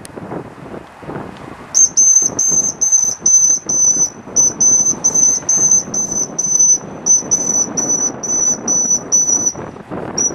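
Rapid high-pitched beeping, about three beeps a second in runs of five or six with short breaks, starting about two seconds in. Wind noise on the microphone runs underneath.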